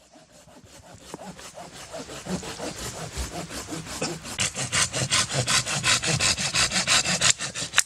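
Hand saw cutting through wood in quick, even back-and-forth strokes that grow louder as the cut goes on, then stop abruptly near the end.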